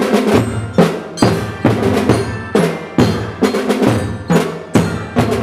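School drum band playing: snare and bass drums strike a steady beat a little over twice a second, with a melody of ringing pitched tones over it.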